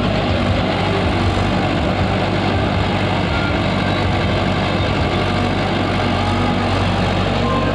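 A heavy vehicle engine running steadily, a constant low drone with no change in speed.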